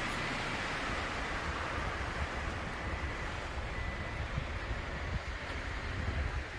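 Wind blowing over the microphone: a steady rushing noise with an uneven low rumble of buffeting.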